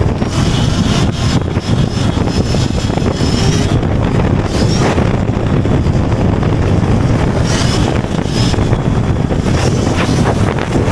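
Wind buffeting the microphone while riding a Sur-Ron electric dirt bike at speed, a loud steady rushing roar, with a faint high whine now and then.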